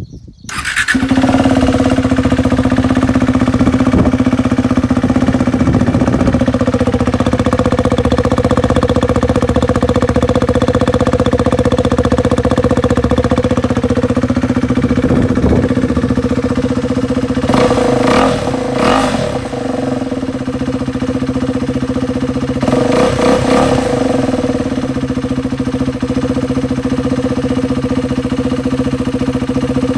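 KTM Duke 390's single-cylinder engine idling steadily through a new Akrapovic exhaust. About two-thirds of the way through it is given a couple of short throttle blips, and again a few seconds later, each rising and falling back to idle.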